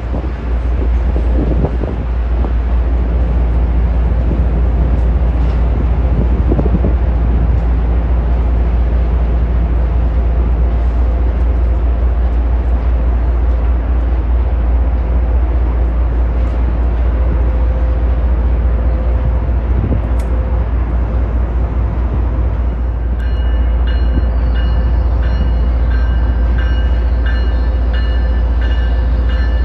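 Amtrak Acela Express trainset pulling away from a station platform over a steady low rumble of the rail yard. About three-quarters of the way in, a set of high steady tones with a regular pulse joins in.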